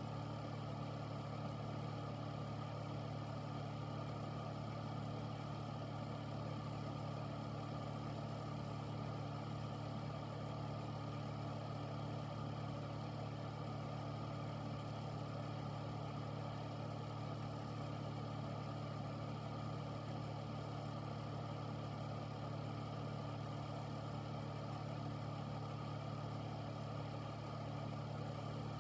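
Air filter's fan motor running steadily: a constant low hum with a few fixed tones over an even rush of moving air, unchanging throughout.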